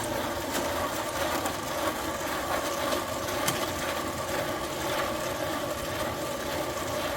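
Electric mixer running steadily, a paddle churning concrete mix in a bucket.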